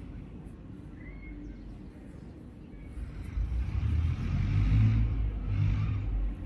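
A low rumble that swells about three seconds in, with some hiss above it, then drops away sharply near the end.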